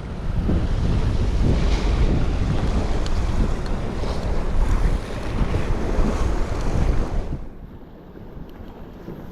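Wind buffeting the microphone over sea waves washing against shore rocks, a loud, steady rush with a heavy low rumble. The rush dies down suddenly about seven seconds in.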